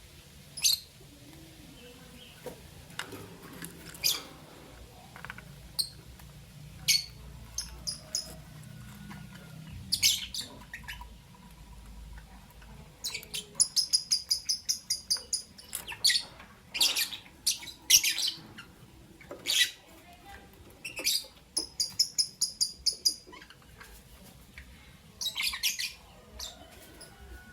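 Lovebirds chirping: short, sharp, high chirps scattered through the stretch, with fast runs of about five chirps a second in the middle and again later on.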